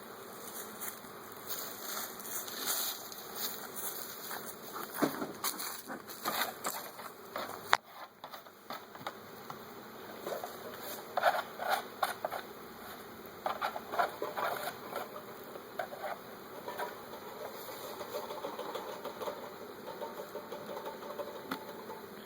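Honeybees buzzing around a newly hived swarm, a steady hum with uneven swells as bees fly close. One sharp click about eight seconds in.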